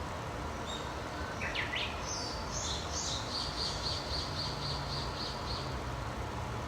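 A songbird singing: a few quick rising notes about a second and a half in, then a high phrase that runs into a trill of about a dozen evenly repeated notes, about four a second, ending near the six-second mark. Under it is a steady low rumble of background noise.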